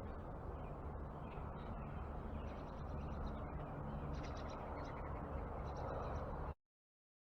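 Birds at a feeder giving several short, harsh calls in a few clusters, over a steady low outdoor rumble; the sound cuts off abruptly to silence about six and a half seconds in.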